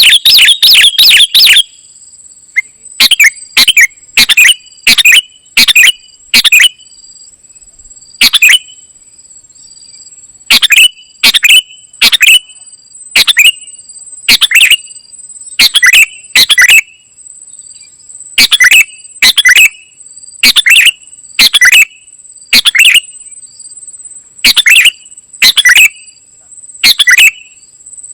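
A kutilang emas singing in full song: loud, short chirping phrases repeated in quick runs of two to four with brief pauses between the runs. A faint steady high-pitched tone sounds underneath.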